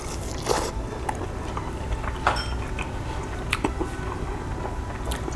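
A man chewing a bite of prime rib roast, with a few short, wet mouth clicks and smacks scattered through it over a steady low hum.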